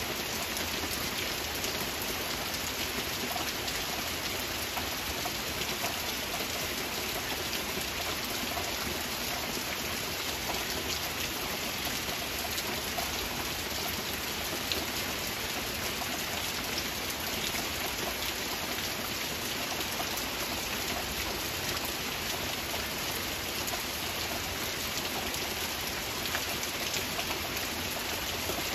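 Steady rain falling: a constant hiss of rainfall with many small drop ticks scattered through it, even in level throughout.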